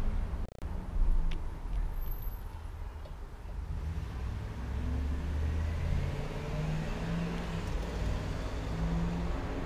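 Road traffic rumbling steadily, with an engine hum in the second half.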